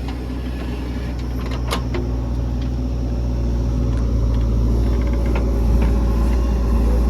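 Heavy diesel engine running steadily with a deep hum, slowly growing louder. A few sharp clicks or knocks sound in the first two seconds.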